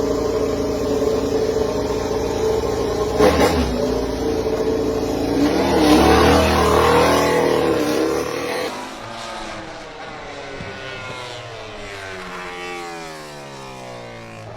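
Yamaha V4 MotoGP race bike engine running loud and steady at high revs, then, after an abrupt change about nine seconds in, a quieter engine note falling steadily in pitch as the bike slows.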